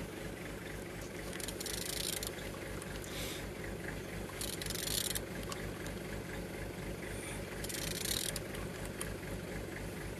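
Renault M9R 2.0 dCi diesel engine being turned over by hand, with several short bursts of hiss over a steady low throb.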